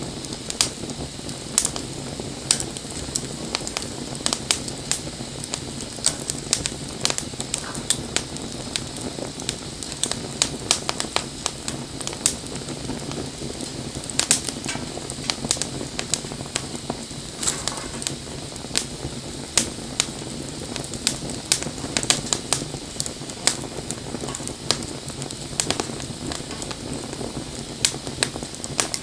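Wood bonfire burning, crackling and popping with irregular sharp snaps over a steady low rush of flame.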